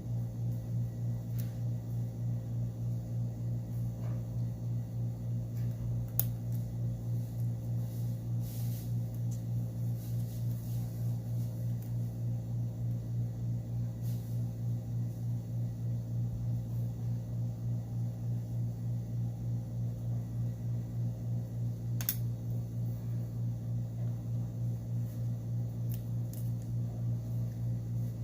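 A steady low hum with a slight regular pulse, and a few sharp small clicks, the loudest about six seconds in and near the end.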